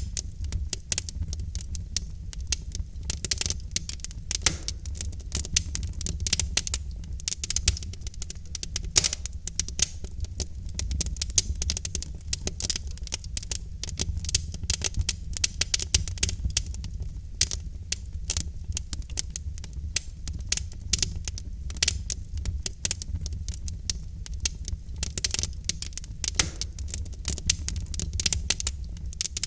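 Logs burning in a fireplace, crackling with dense, irregular pops and snaps over a low steady rumble.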